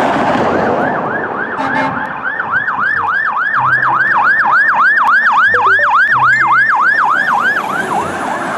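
Electronic fire-engine siren sounding in a fast yelp, about three to four rising-and-falling wails a second, over a rushing noise that is strongest in the first two seconds.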